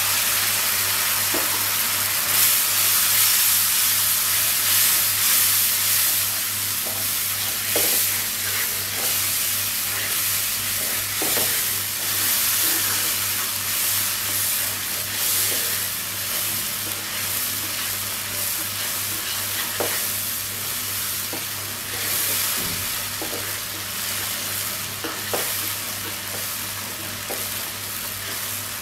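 Onion and spice masala with a splash of coconut milk sizzling steadily in mustard oil in a kadai while a wooden spatula stirs and scrapes it, with a few sharp scrapes here and there. The masala is being fried down (kosha) until the oil separates.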